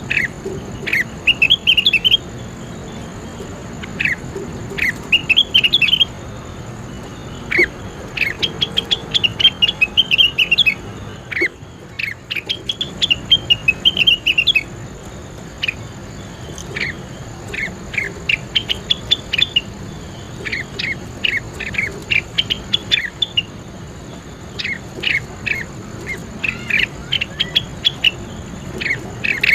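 Leafbird song: quick bursts of bright chirping notes every second or two, with a faint steady high tone underneath.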